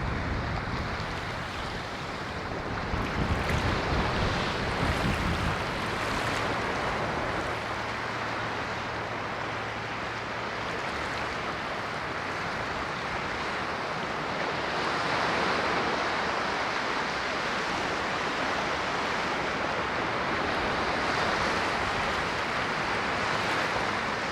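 Ocean surf: a steady wash of waves that swells and eases, with a low rumbling in the first few seconds.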